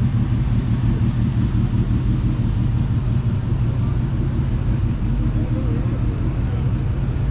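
A car engine idling steadily with a deep, slightly uneven low rumble.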